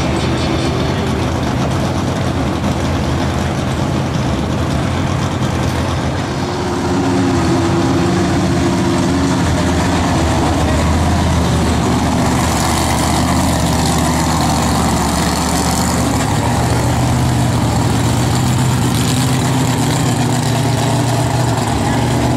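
Engines of classic cars idling and moving slowly past, a steady low engine note that changes a few times as one car follows another.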